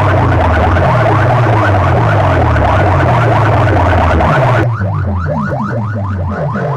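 Competition sound-box speaker stacks blasting an electronic siren track: rapidly repeated rising siren-like sweeps, several a second, over a heavy pulsing bass. About two-thirds of the way through, the treble drops away abruptly and the sweeps carry on, slower.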